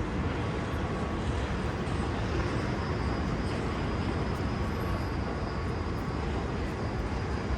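Steady outdoor city background noise, mostly a low rumble like passing traffic.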